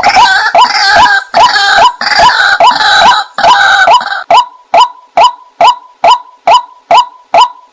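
White-breasted waterhen call recording used as a hunting lure. A hooked note repeats evenly about twice a second. For the first four seconds a harsher, noisier chorus overlaps it, then the single note goes on alone.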